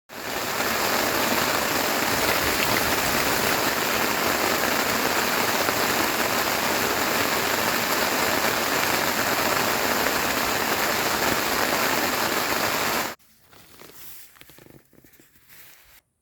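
Heavy rain falling as a loud, steady hiss, which cuts off abruptly about 13 seconds in; a much quieter, uneven sound follows for a few seconds.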